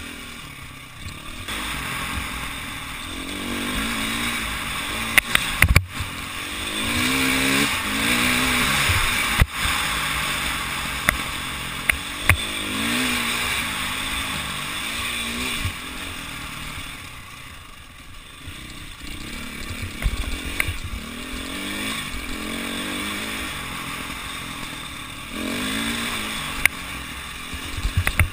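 Enduro motorcycle engine heard from a camera mounted on the bike, revving up and falling back again and again. Several sharp knocks come through as the bike goes over rough ground.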